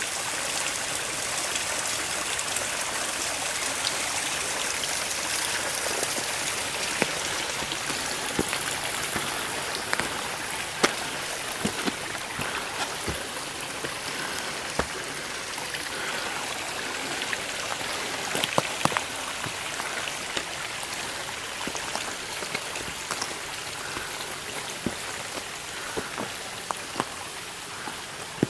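Small mountain stream running over rocks: a steady, even rush of water, with scattered light taps and clicks.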